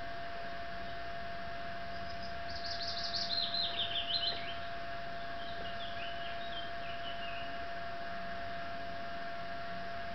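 A songbird singing a short phrase of quick notes that step down in pitch, about two and a half seconds in, followed a few seconds later by a fainter, lower phrase. A steady faint hum with a thin steady tone runs underneath.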